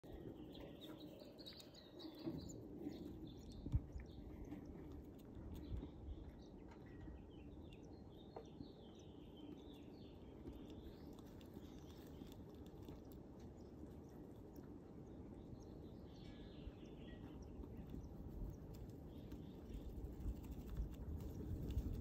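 Small birds chirping faintly in scattered high clusters over a low steady rumble of background noise, with one short knock about four seconds in.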